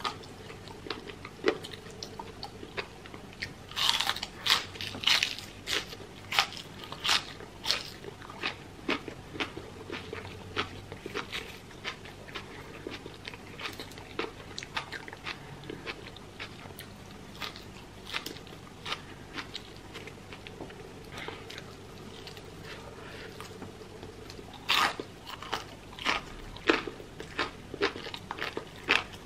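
Close-miked eating: crisp crunching bites and chewing of breaded fried chicken and raw green onion, irregular crunches with louder clusters about four to seven seconds in and again near twenty-five seconds.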